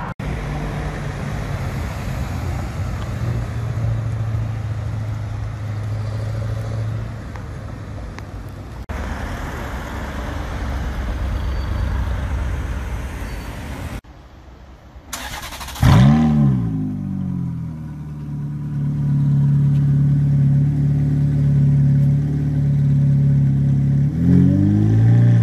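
Engines of passing cars in street traffic, then a Ferrari F430's 4.3-litre V8 starting: the revs flare up loudly and fall back to a steady idle. A quick rev blip comes near the end.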